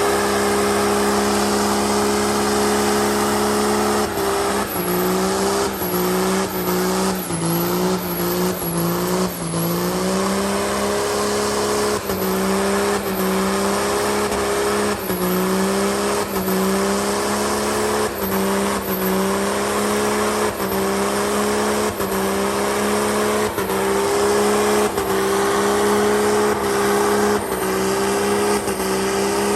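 Truck engine held at high revs during a burnout, with the spinning tyres squealing. A few seconds in, the engine note dips and climbs back about once a second for several seconds, then holds with small regular wavers.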